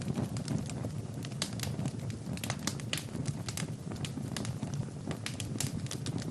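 Wood fire burning in a fireplace: frequent irregular sharp crackles and pops, several a second, over a steady low rumble of the flames.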